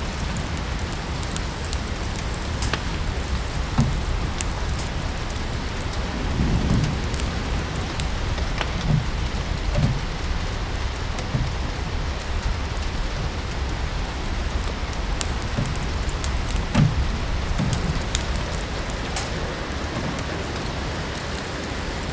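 Steady rain with a wood fire crackling, sharp pops scattered irregularly through it, and a few soft low thuds.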